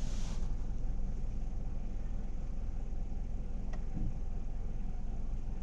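Car engine idling steadily, with a short hiss at the start and a single click about two thirds of the way through.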